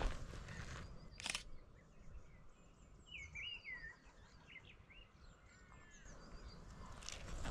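Birds calling in short, high chirped notes that rise and fall, over a low background rumble, with a single sharp click about a second in.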